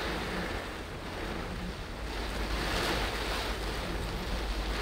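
Heavy rain and tyre spray on a wet road, heard from inside a moving car: a steady rushing hiss over a low road rumble, swelling louder a couple of seconds in.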